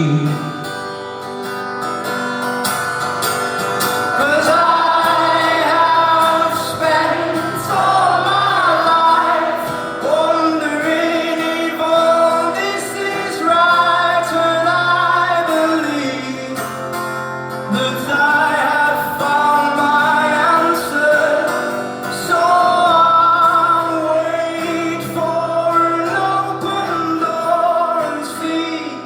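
Live indie rock band playing a song with sung vocals over guitars and a steady bass line.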